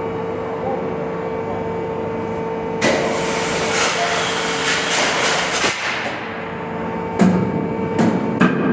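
Steady machinery hum, then about three seconds in a sudden loud hiss of compressed air, typical of a large two-stroke marine diesel's high-pressure air system, that runs for about three seconds and fades. From about seven seconds in come irregular sharp metallic knocks and clicks.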